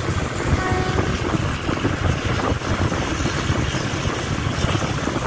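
Ordinary passenger train running along the track, heard from an open carriage window: a steady rumble from the wheels on the rails mixed with rushing air.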